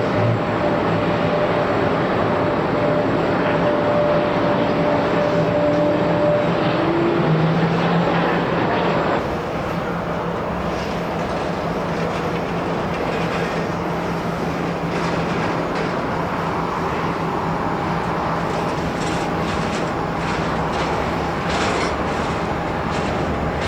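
Jet airliner engine noise: a steady roar with a fan whine that fades out about seven seconds in, then a sudden change to a slightly quieter roar from another airliner about nine seconds in.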